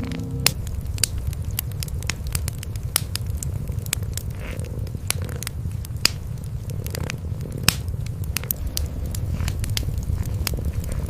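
Cats purring, a low steady rumble, over a wood fire crackling with frequent sharp pops.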